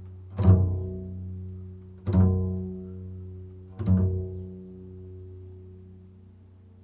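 Improvised instrumental music: three low notes about a second and a half apart, each with a sharp attack left to ring and fade away, the last dying down near the end.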